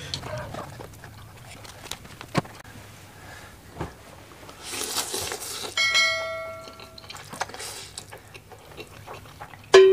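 Noodles slurped into the mouth in short, noisy pulls, with a few sharp clicks of utensils on the plate. A bright, bell-like chime of several tones rings for about a second, about six seconds in.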